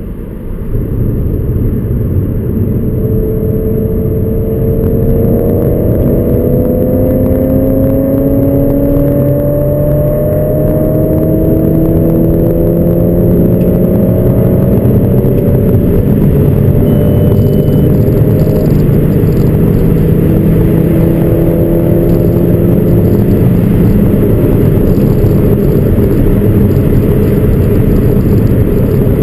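Audi S4's 4.2 V8 through free-flowing headers and aftermarket exhaust, pulling hard under acceleration. The engine note climbs steadily, drops back at upshifts and climbs again, then settles into a loud steady drone.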